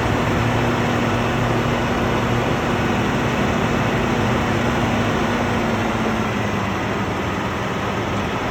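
Air-conditioning unit running: a steady hum with the even rush of its fan, unchanging throughout.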